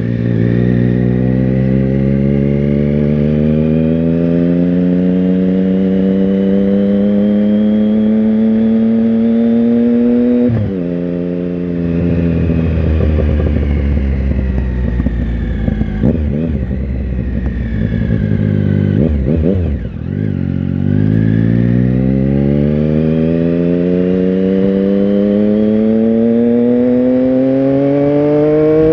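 Triumph Tiger Sport 1050's three-cylinder engine heard from on board while riding: it pulls up steadily through the revs for about ten seconds, drops back and runs at lower, wavering revs, then pulls up again through the last eight seconds.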